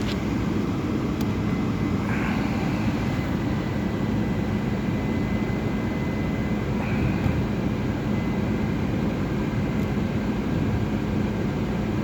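2006 Honda CR-V's 2.4-litre four-cylinder engine idling steadily shortly after a cold start in freezing weather, with the heater blower running on defrost. A faint high whine comes in about two seconds in and fades a few seconds later.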